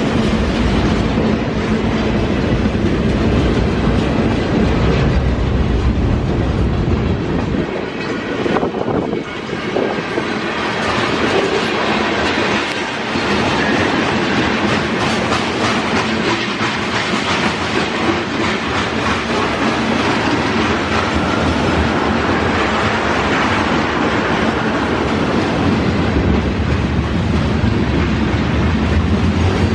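A train rolling past, its wheels clicking over the rail joints in a steady, loud rumble.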